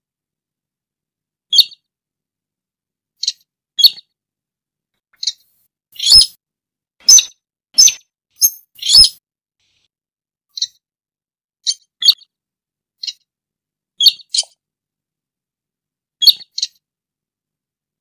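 Sintar calling: short, sharp, high notes, singly or in quick pairs, every second or two, with a louder run of calls about six to nine seconds in.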